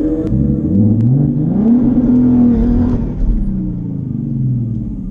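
A car engine accelerating hard: its pitch climbs for about a second and a half, holds high for about a second, then falls away.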